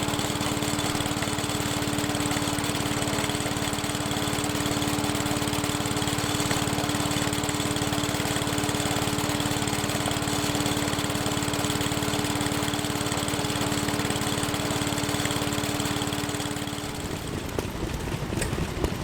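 Small engine running steadily with an even hum under it. The hum stops about seventeen seconds in, giving way to a rougher sound.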